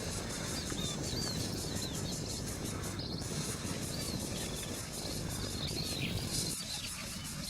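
Birds chirping in short, high, repeated calls over a steady low rumbling noise.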